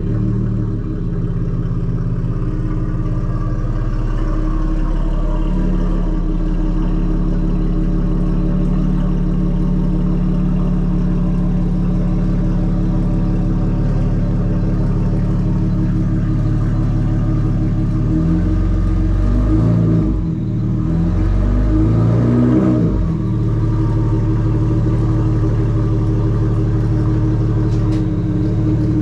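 BMW 335i's turbocharged straight-six idling steadily, revved up and let fall back twice about two-thirds of the way through.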